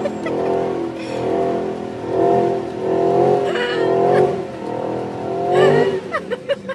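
Car engine running, its revs rising and falling in repeated swells, with a brief higher, wavering sound near the end.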